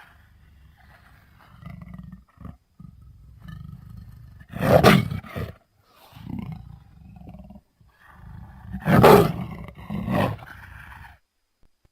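Lion sound effects: low rumbling growls broken by two loud roars, about 5 and 9 seconds in, with shorter, quieter roars after each.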